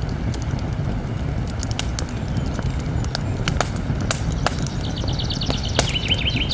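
Campfire crackling, with scattered sharp pops over a low steady rumble. Near the end a bird sings a short phrase of rapid high chirps.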